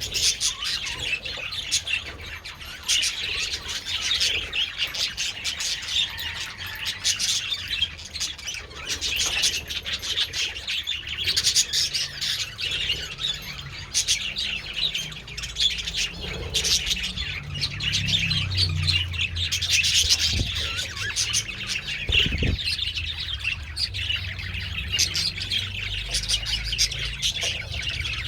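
A colony of budgerigars chattering and chirping together in a dense, continuous warble, with a low rumble and a dull thump past the middle.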